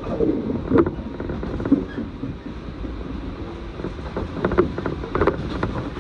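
Running noise of a passenger train heard from inside the car: a steady low rumble with a few sharp clicks and knocks from the wheels on the track.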